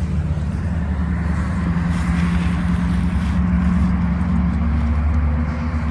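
A motor vehicle's engine running close by with a steady low hum, growing louder toward the middle and easing off near the end, as of a car moving slowly past in a parking lot.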